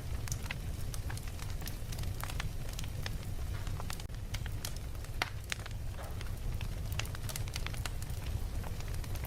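Wood fire crackling, with frequent irregular sharp pops over a steady low rumble of the flames.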